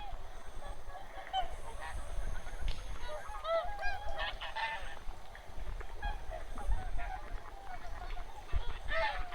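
A flock of wild geese calling: many short, overlapping calls throughout, some louder ones standing out near the middle and near the end.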